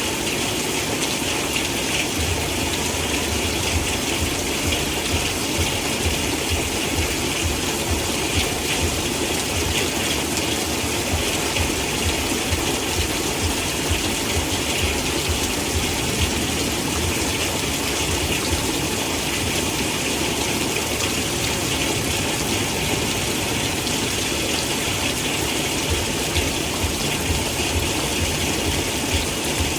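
Heavy rain falling steadily, a dense even hiss of water with a low rumble underneath.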